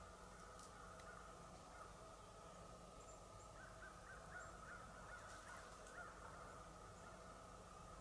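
Faint, distant bird calls: a quick run of repeated short calls about halfway through, with a few faint high chirps, over a steady low background hum.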